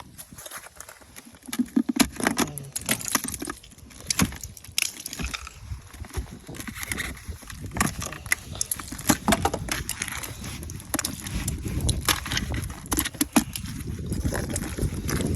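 Ice being knocked and broken off a truck: an irregular run of sharp cracks, clicks and knocks over a low rumble that sets in about two seconds in.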